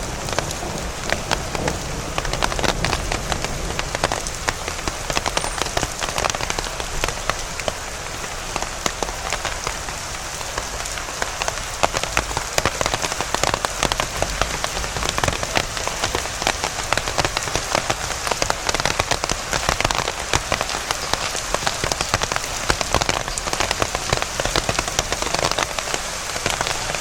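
Steady rain falling, with many sharp, close drop hits ticking over a constant hiss.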